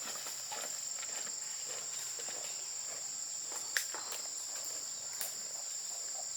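Steady high-pitched insect chirring, with scattered light clicks and one sharper click nearly four seconds in.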